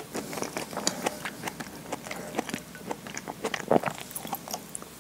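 Close-miked chewing of soft udon noodles in thick curry, with many small wet mouth clicks and smacks. A somewhat louder wet sound comes a little after halfway.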